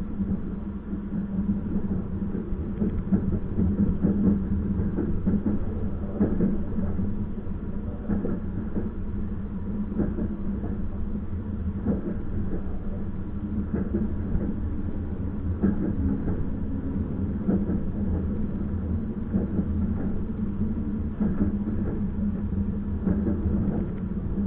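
Passenger train running on the rails, a steady rumble and drone with occasional clicks of the wheels over the track, heard from aboard the train.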